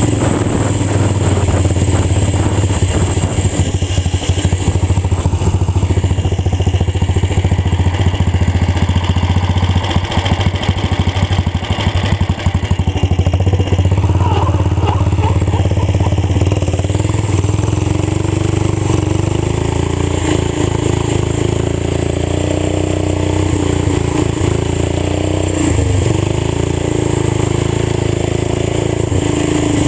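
Old tractor engine running loud and rough through a wide-open exhaust pipe while being driven, its firing pulses plain. Engine speed rises and falls several times in the second half.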